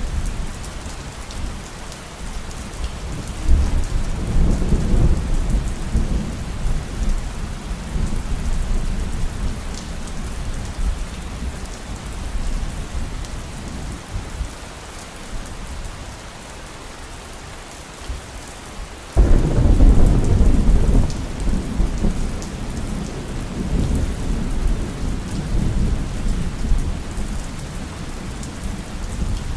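Steady heavy rain with thunder. A low rumble swells about three seconds in and fades over several seconds. A sudden, louder clap comes about two-thirds of the way through and rolls on in waves toward the end.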